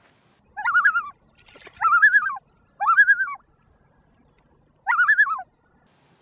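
Loon calls blown through cupped hands: four short notes, each rising, quavering and falling, with gaps between them, the fourth after a longer pause.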